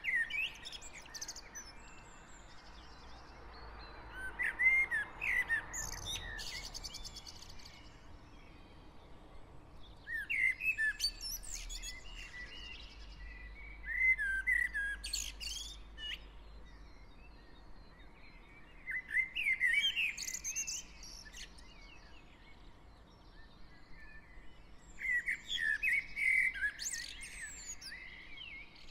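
Garden birds singing in a spring dawn chorus: a songbird's high, varied phrases of a second or two, repeating every few seconds over softer background chirps, with a faint low hum of distant traffic.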